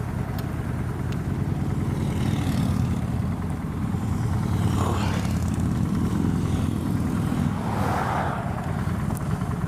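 Honda Shadow 750's V-twin engine running steadily under way, heard from a helmet-mounted camera, with two brief swells of noise about five and eight seconds in.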